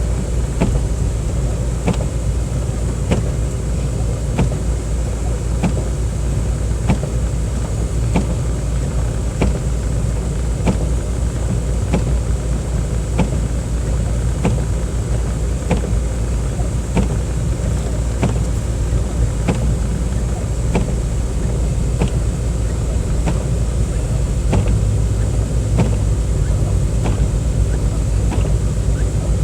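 Car driving, heard from inside the cabin: a steady low rumble of engine and road noise, with a faint click repeating about every three quarters of a second.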